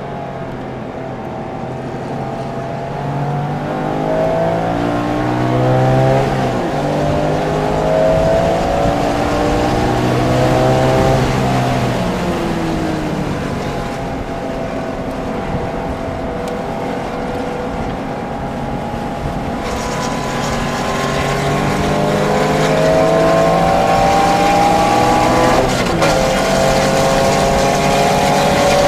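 A Porsche sports car's engine at speed on a race track, its pitch climbing and falling repeatedly as the car accelerates, shifts gears and slows for corners, with steady tyre and wind noise underneath.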